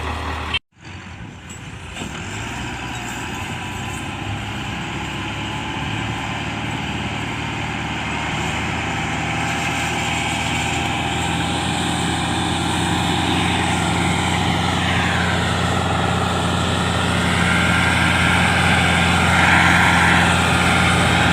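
Massey Ferguson 385 tractor's diesel engine running steadily and growing gradually louder, after a brief dropout in the sound about half a second in.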